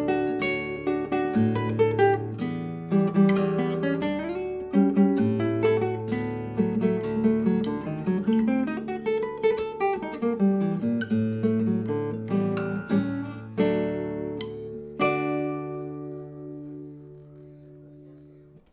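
Acoustic guitar music: notes picked over a moving bass line, ending on a chord about 15 s in that rings out and slowly fades away.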